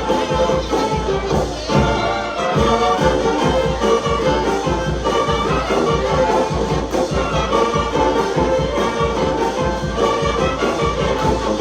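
Brass band music with trumpets and trombones over a steady beat.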